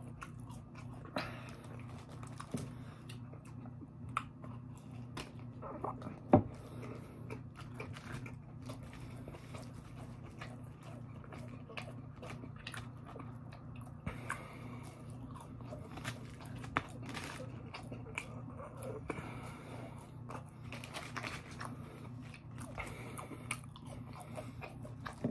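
Close chewing and crunching of curly fries and other fried fast food, with many small sharp mouth clicks and one louder snap about six seconds in, over a steady low hum.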